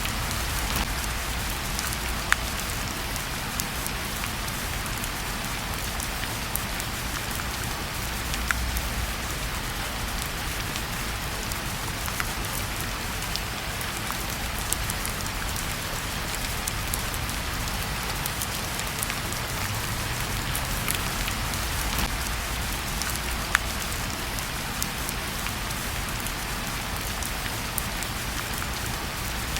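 Steady rain falling, with a few sharp crackles from a wood fire in a fireplace now and then.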